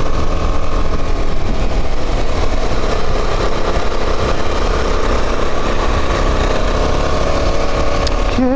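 Motorcycle engine running steadily on the move, under a constant rumble of wind on the microphone.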